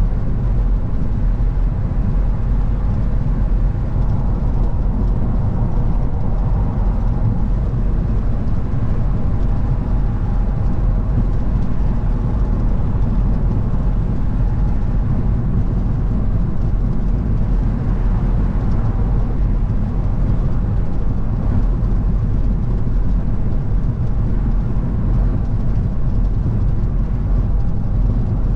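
Steady road and engine noise of a car driving at an even pace: a constant low rumble with no changes.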